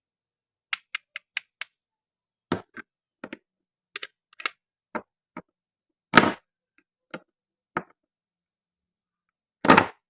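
Hard toy pieces being handled: a quick run of sharp clicks, then irregular taps and knocks, two of them louder and heavier, one past the middle and one near the end.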